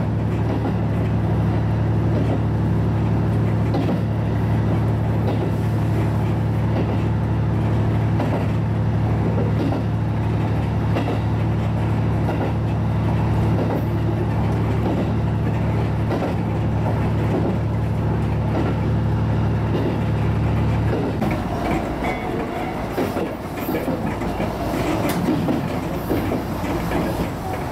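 HB-E210 hybrid diesel railcar running along the line, with a steady low drone under the wheel clatter. The drone cuts off suddenly about 21 seconds in, leaving uneven rattling wheel-on-rail noise.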